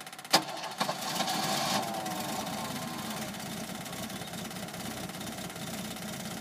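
The old engine of a 1951 Willys Jeep running steadily at idle. Two sharp knocks sound within the first second.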